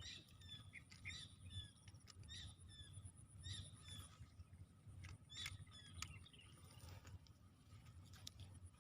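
Faint outdoor ambience of short chirping animal calls repeating irregularly, over a steady high-pitched drone and a low rumble.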